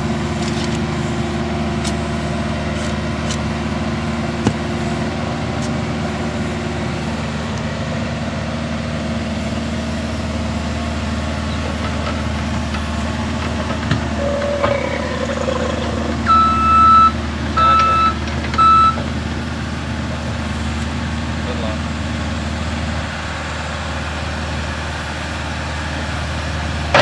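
A heavy work vehicle's engine running steadily at idle, with a backup alarm giving three short beeps about two-thirds of the way through.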